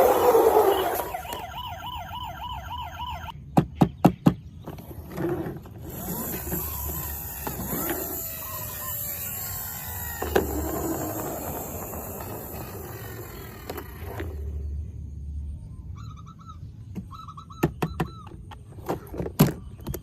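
Toy siren warbling for about two seconds, followed by sharp clicks, four in quick succession about four seconds in and several more near the end.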